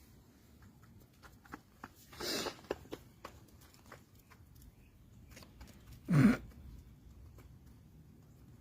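Silkie chickens feeding: scattered light taps and pecks, with two short louder sounds about two seconds in and about six seconds in, the second the loudest.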